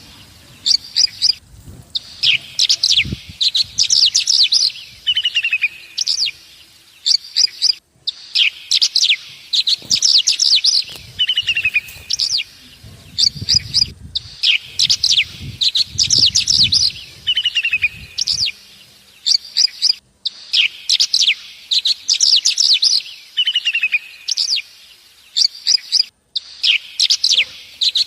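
Small birds chirping and trilling in quick high bursts, the same pattern coming round about every six seconds with a short break between, as in a looped birdsong track. A low rumble runs under it for the first two-thirds and then stops.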